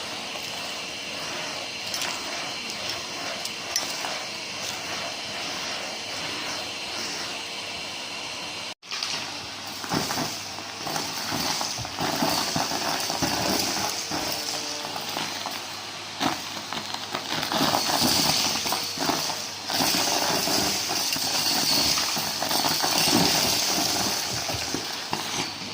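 Numatic James canister vacuum running with a steady hum while sucking up dry debris that rattles and clinks through the hose. The sound breaks off for an instant about nine seconds in, after which the crunching and rattling of debris is busier and louder.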